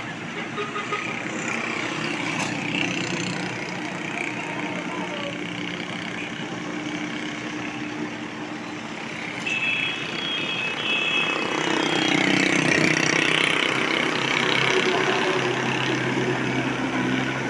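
Expressway traffic: engines of heavy vehicles running and passing close by, the loudest pass swelling and fading about twelve to fourteen seconds in. A brief high squeal comes about ten seconds in.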